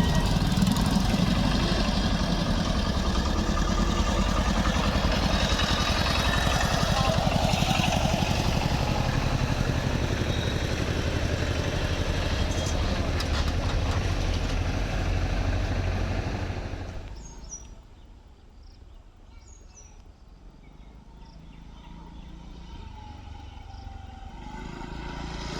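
EMU electric local train passing close by: a loud, steady rumble and clatter that fades away quickly about 17 seconds in as the train clears, leaving a much quieter background.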